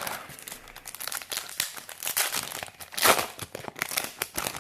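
Foil booster pack wrapper crinkling as it is handled and torn open, with a louder burst about three seconds in.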